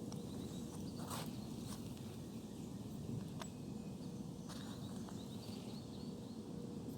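Outdoor riverside ambience: a steady low rush of background noise with small birds chirping faintly and a few light clicks.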